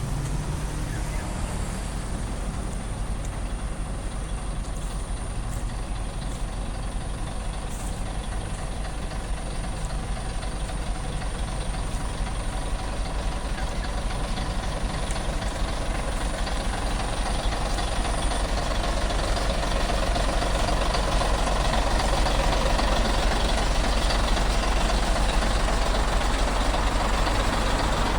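Scania heavy truck's diesel engine running steadily, growing louder in the last third.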